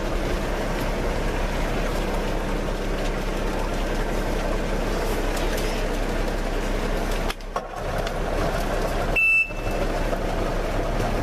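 Small boat's outboard motor running steadily under a constant rushing noise, with one short high beep about nine seconds in.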